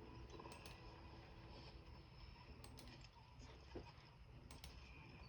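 Near silence with a few faint scattered clicks.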